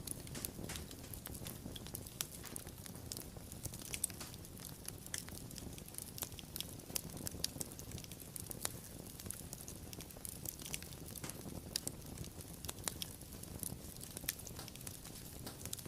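Wood fire crackling: many small, irregular pops and snaps over a soft steady rumble of burning.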